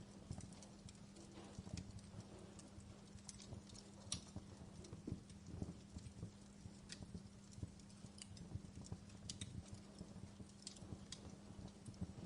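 Faint wood fire crackling in a fireplace: irregular small pops and snaps over a low rumble, with a steady low hum underneath.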